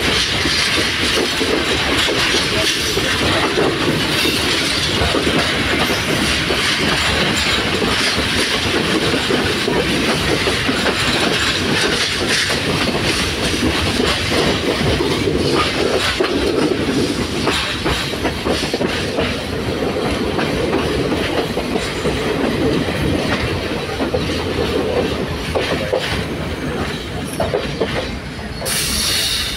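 S-class passenger train running, heard from its open doorway: wheels clattering over the rail joints over a steady rumble. It eases off near the end as the train slows along a station platform, with a brief high squeal just before the end.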